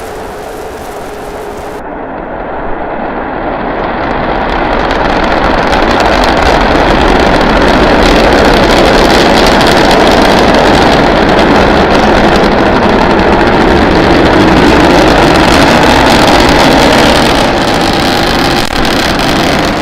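Starship SN9's three Raptor methane rocket engines firing at full power during ascent. The noise is loud and steady, building over the first few seconds and easing slightly near the end.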